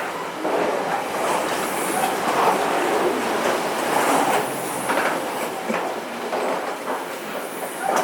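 A train running along the track, with wheels clicking over rail joints every second or two.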